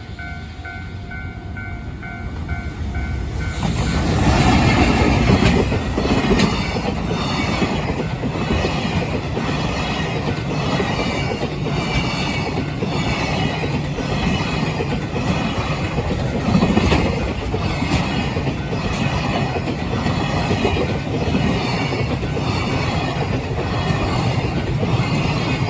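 Freight train passing close by. Its wagons rumble and clack over the rail joints in a steady repeating rhythm. The train's noise swells sharply about three and a half seconds in.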